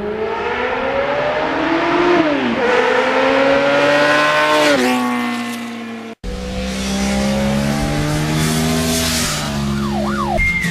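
Motorcycle engine accelerating through the gears, its pitch climbing and then dropping sharply at each upshift, twice. About six seconds in it cuts off abruptly to another stretch of the engine running with slower rises and falls in pitch.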